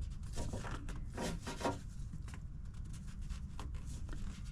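Oil filter housing being screwed on by hand: quick rubbing and clicking strokes from the threads for about the first two seconds, then a few scattered clicks, over a low steady hum.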